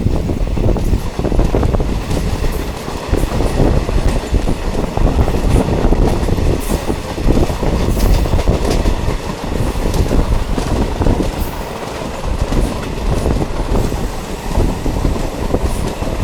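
Diesel multiple unit train running along the track: a steady loud rumble with irregular clacks and rattles from the wheels and carriages.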